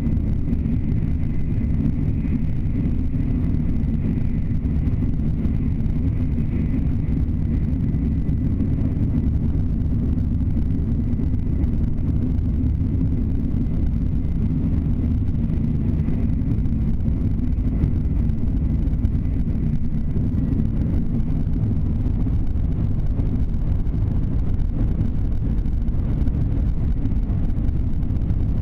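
Shinkansen bullet train running at speed, heard from inside the passenger carriage as a steady low rumble.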